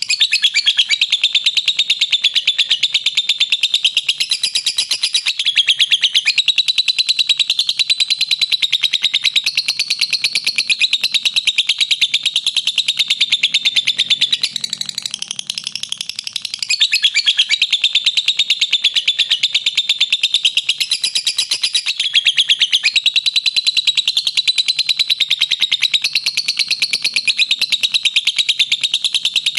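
Lovebird giving its long chattering 'ngekek' call: a rapid, unbroken string of shrill chirps that eases briefly about halfway through, then picks up again.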